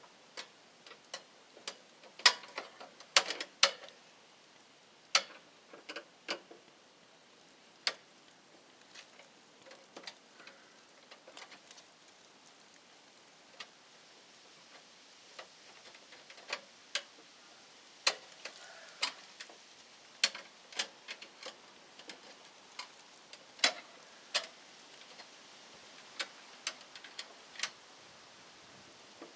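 Irregular sharp clicks and light taps of hand tools and small metal parts being handled, over a faint steady hiss.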